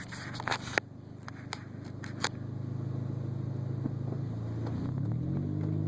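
Car engine running with a steady low drone, then revving up and rising in pitch from about four seconds in as the car pulls away. A few sharp clicks and knocks sound in the first couple of seconds.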